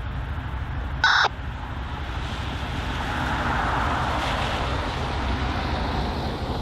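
Steady low rumble and rushing hiss, with one short, harsh animal call about a second in.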